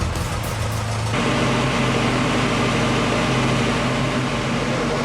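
Alfa Romeo Duetto Spider's twin-cam four-cylinder engine, fed by twin Weber carburettors, running steadily while it is being tuned.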